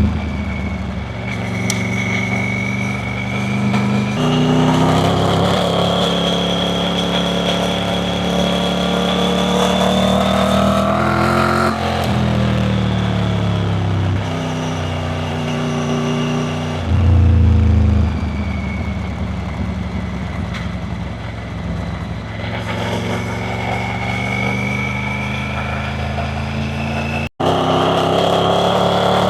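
Triumph Tiger 900 Rally Pro's three-cylinder engine under way, revs climbing and falling back several times as the bike pulls and rolls off, with a fainter high whine that rises and falls with the revs. The sound cuts out for an instant near the end.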